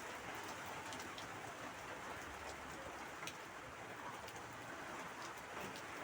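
Steady rain falling, an even hiss with scattered sharp drop hits close by.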